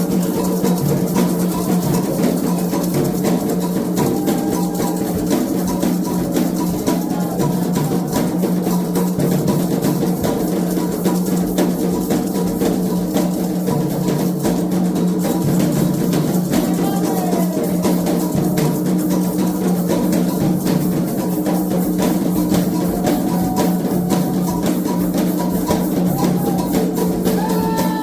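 Candomblé ritual drumming: atabaque hand drums playing a steady, fast rhythm without a break.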